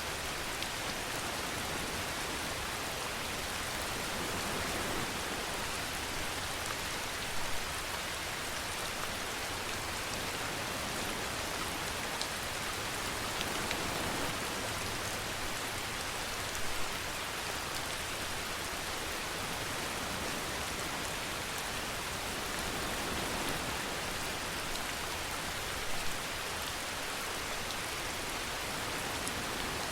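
Steady rain falling and pattering on surfaces, an even hiss with a brief louder spatter about every nine seconds.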